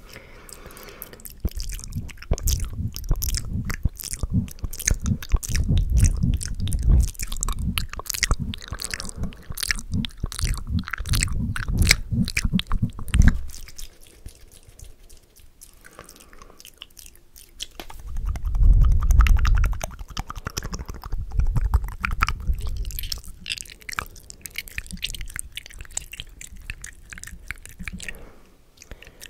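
Close-miked ASMR mouth sounds: rapid wet clicks and smacks, heard much like chewing. In two long stretches, most of the first half and again around two-thirds of the way through, they come with heavy muffled low thumps and rumbling.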